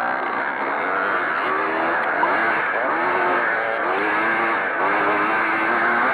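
Pre-65 motocross motorcycles racing, their engines repeatedly rising and falling in pitch as the throttles are opened and closed.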